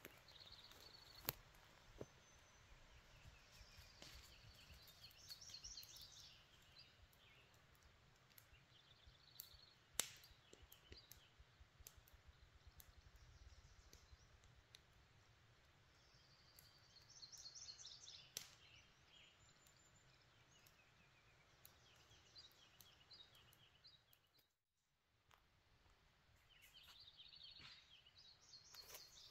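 Faint songbird song: short chirped and trilled phrases repeated every few seconds, with a few sharp clicks in between.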